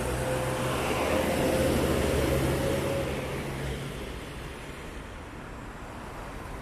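A road vehicle passing by: engine hum and tyre noise build to a peak about two seconds in, then fade away after about four seconds into quieter steady street noise.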